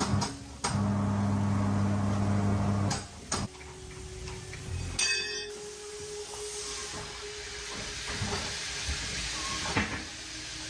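Workshop sounds: a few sharp clicks, then a steady low machine hum for about two seconds that stops abruptly, followed by a hiss that swells through the rest of the stretch.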